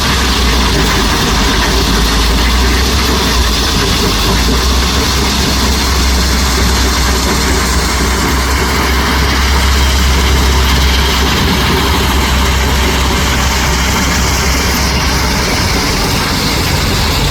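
Heavy dump truck's diesel engine running steadily at idle, a deep, even rumble.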